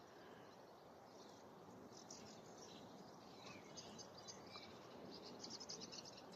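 Faint birdsong from small marsh birds: quick, high chirps and trills that become busier over the last second or two, over a soft background hiss.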